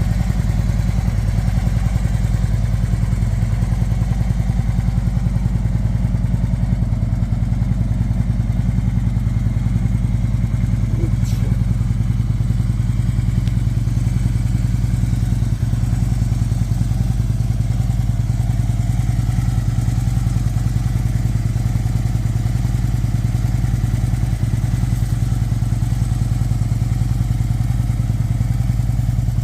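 Harley-Davidson Ultra Classic's air-cooled V-twin idling steadily through a SuperTrapp aftermarket exhaust, with an even low pulsing beat.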